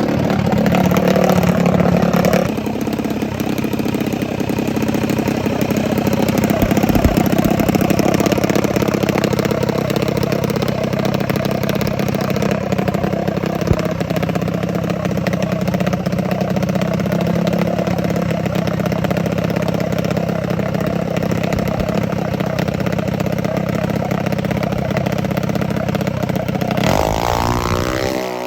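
Mini drag bike engines running steadily at a nearly constant pitch, with a rise in pitch near the end as an engine revs up.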